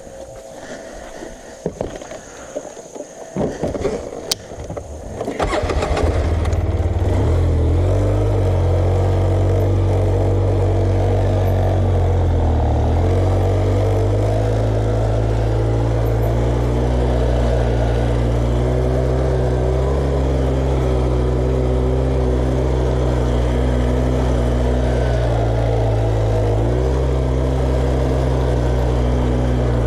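Tractor engine starting about five seconds in after some knocks and clatter, then running steadily with a low, even hum that briefly dips in pitch twice.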